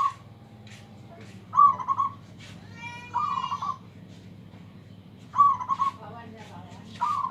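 Zebra dove (perkutut) cooing: short rolling coos repeated four times, one every one and a half to two seconds. A short buzzy note comes in about three seconds in, just before the second coo.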